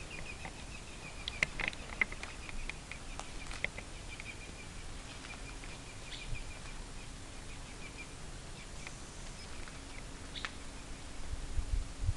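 A bird calling outside with a long run of rapid, repeated high chirps on one pitch, fading out about two-thirds of the way in, over scattered sharp clicks and a low rumble of movement near the end.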